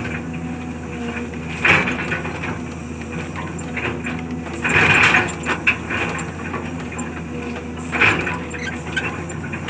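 Heavy machine engine running steadily on demolition work, with wood cracking and debris crashing three times: about two seconds in, around the middle, and near the end.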